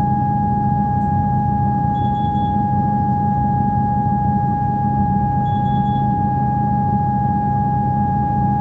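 Steady high-pitched electrical whine over a low hum inside a Comeng electric train carriage, with a faint short high chirp twice.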